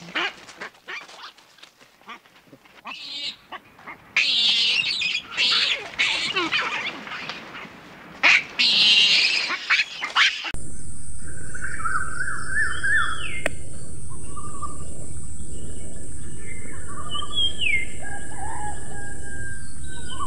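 For about ten seconds, irregular loud hissy bursts. Then a sudden change to birds chirping, in short calls and quick glides, over a steady high-pitched hiss and a low hum.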